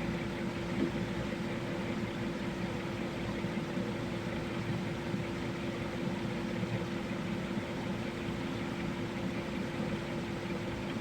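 Steady background hum: an even hiss with one constant mid-pitched tone running unchanged, with no knocks or other events.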